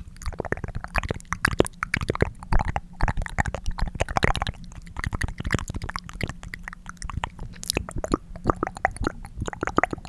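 Tongue clicking: rapid wet clicks made with the tongue in the mouth, many a second, thinning out for a moment midway.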